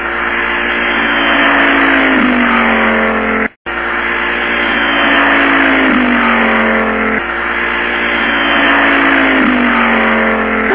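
Race car engine sound effect, the engine note repeatedly falling in pitch like a car sweeping past. It repeats about every three and a half seconds, with a brief cut about three and a half seconds in.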